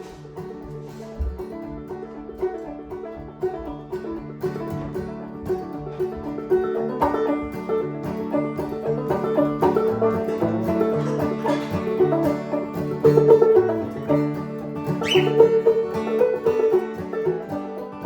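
Instrumental acoustic band music with fast plucked-string picking over steady held notes, growing louder about seven seconds in.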